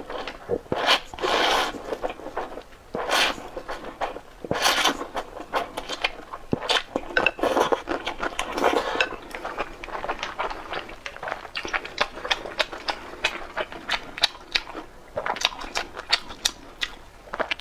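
Close-up eating sounds: utensils clicking and scraping against a bowl, with short loud mouth sounds every second or two.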